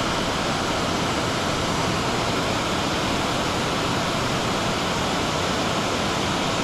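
Steady rush of fast-flowing creek water in the tailwater below a dam, an even hiss-like roar that does not change.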